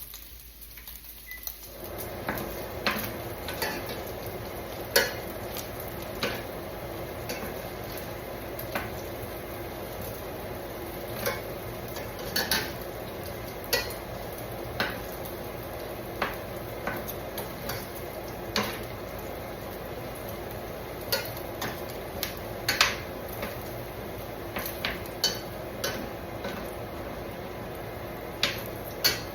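Chopped bacon sizzling in a frying pan while a utensil stirs it, scraping and clicking irregularly against the pan. A steady hiss comes in about two seconds in and holds under the clicks.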